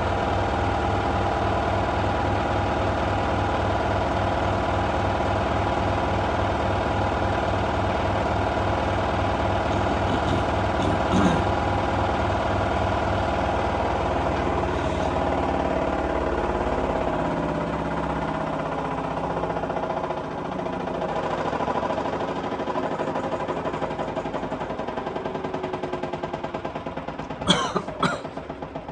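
LG F1222TD washing machine on its full-speed final spin, a steady hum and whine from the motor and drum. In the second half the spin winds down and the sound thins and pulses as the drum slows, with a few sharp clicks near the end.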